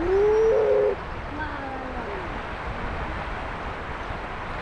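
Steady rush of a flowing mountain river. In the first second a loud short pitched call rises and then holds, followed a second or so later by a couple of fainter calls over the water.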